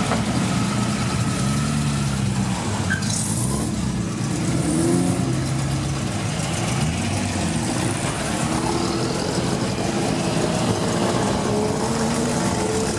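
Car engines running and revving, their pitch rising and falling repeatedly.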